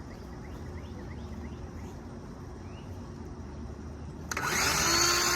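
A power saw, most likely a circular saw, starts about four seconds in: its motor spins up with a briefly rising tone, then runs steadily as the blade scores a line across a wooden board. Before that, faint bird chirps over the quiet outdoor background.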